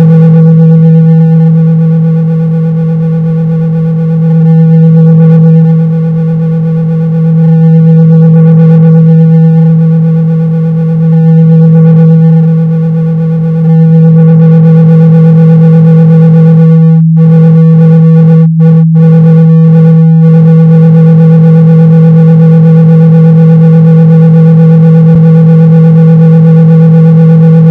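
A loud, steady low electronic tone of about 162 Hz, a speaker-cleaning tone played to vibrate water and dust out of a speaker. It swells and dips in loudness a few times in the first half and flutters briefly about two-thirds of the way through.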